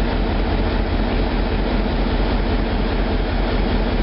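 MaK 8M32 eight-cylinder medium-speed marine diesel main engine running steadily under load at about 600 rpm: an even, unbroken machinery drone with a strong low rumble.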